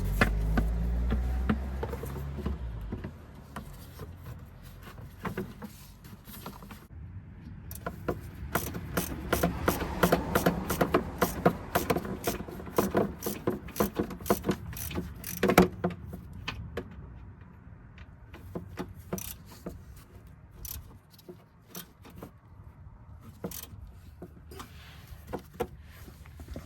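Plastic engine under tray being refitted and bolted back on beneath the car: a low rumble at first, then a long run of clicks, knocks and rattles from the panel and hand tools, busiest in the middle and thinning out toward the end.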